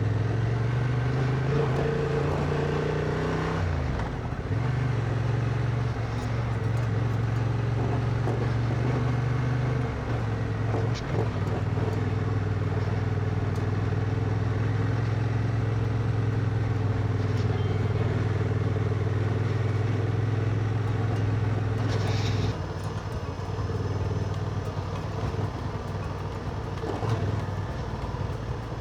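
Motorcycle engine running while being ridden, with a steady low engine note. The engine note dips and breaks off briefly about four seconds in, then picks up again. The level falls somewhat about three-quarters of the way through.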